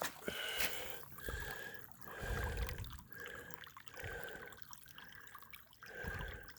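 Spring water trickling and splashing.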